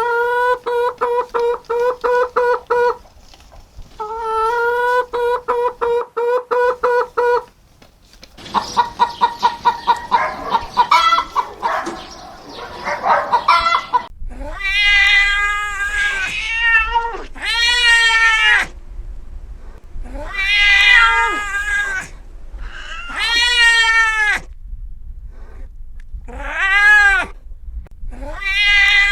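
A cat meowing over and over in the second half: about seven long meows, each rising then falling in pitch. It is preceded by stretches of rapid, evenly pulsed high-pitched calls.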